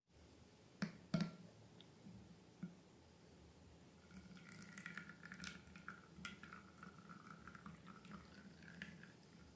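Faint wet slime sounds: a few sharp clicks in the first three seconds, then from about four seconds in a stretch of fine sticky crackling and popping.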